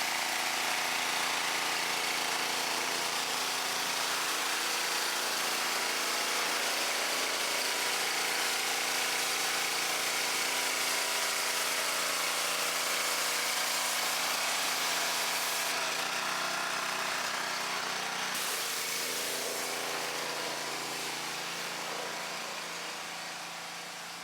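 An engine running steadily, fading out over the last few seconds.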